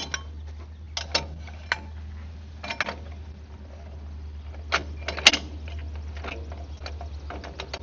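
A steady low hum with a series of sharp clicks and knocks, like equipment being handled; the loudest knock comes about five seconds in.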